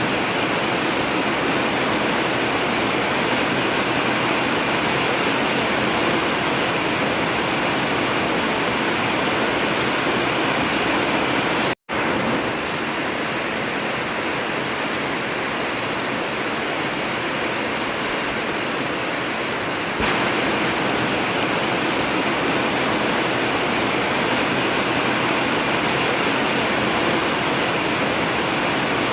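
Heavy rain falling steadily on an old zinc or sheet-metal roof. The rain cuts out for a split second about twelve seconds in.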